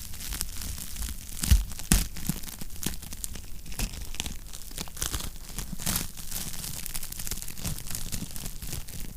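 Wood fire crackling in a fireplace: a constant run of small irregular crackles, with two louder pops about one and a half and two seconds in.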